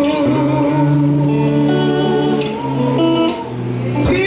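Slow live gospel worship music between sung lines: instruments hold long chords over a steady bass note, the chord changing every second or so.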